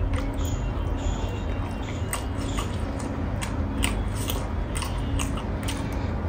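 Close-miked eating sounds: chewing with irregular wet mouth clicks, several a second, while rice is mixed by hand on a steel plate, over a steady low hum.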